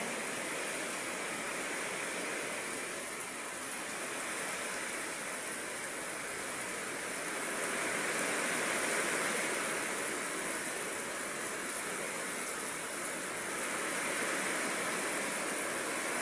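Heavy rain pouring in strong wind, a steady rushing that swells louder a couple of times as gusts come through.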